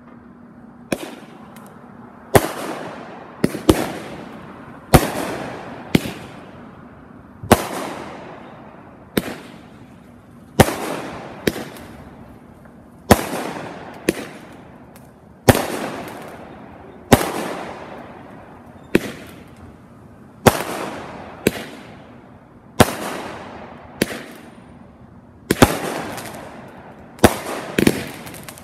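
A 16-shot consumer firework cake (Texas Rattler) firing its shots one after another: sharp bangs roughly a second or so apart, sometimes two close together, each followed by a fading hiss.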